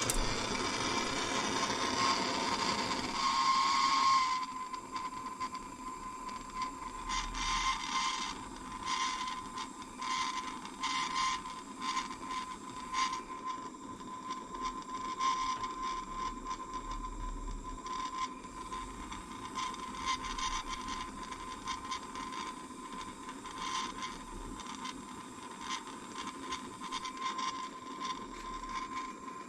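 Gas blowtorch hissing as it heats an oil-pipe joint for silver soldering. It is loud for about the first four seconds, then drops to a quieter hiss with a steady thin whistle, and irregular light clicks and scrapes of metal run on throughout.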